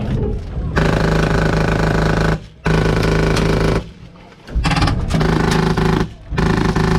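Airsoft M249 light machine gun with a PolarStar HPA engine firing full-auto in four long bursts, a rapid even rattle, with short pauses between them.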